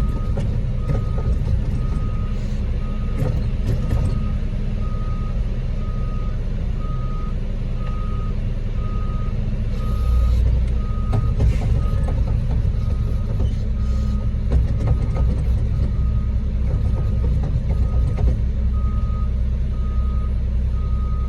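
Backup alarm on a concrete mixer truck beeping steadily about once a second while the truck reverses, over the low rumble of its diesel engine.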